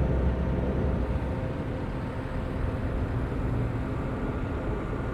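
Steady low rumble of road traffic going by, easing off slightly over a few seconds, with a faint steady hum beneath it.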